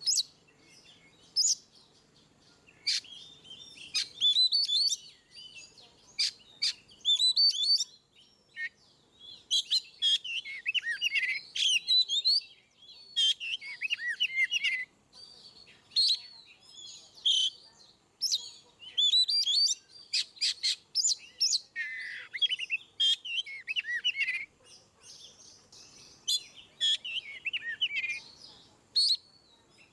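Oriental magpie-robin (kacer) singing in the loud, open 'ngeplong' style. It gives a long, varied run of quick whistled phrases mixed with sharp chips, broken by short pauses.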